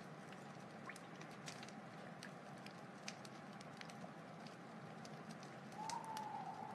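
Wood fire crackling: a steady hiss with frequent sharp, irregular pops. A thin steady tone grows louder near the end.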